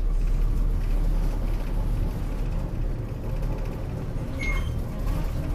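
Interior sound of a city bus under way: a steady low rumble from the engine and the road, louder as the bus pulls away from a stop. About four seconds in there is one short, high beep.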